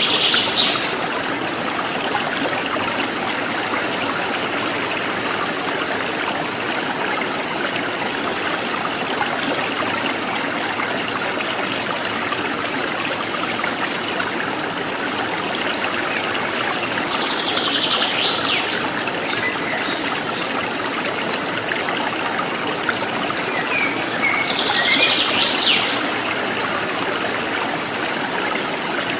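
Water trickling and splashing steadily over rocks in a stream, with a bird calling briefly in short bursts near the start, about 18 seconds in and about 25 seconds in.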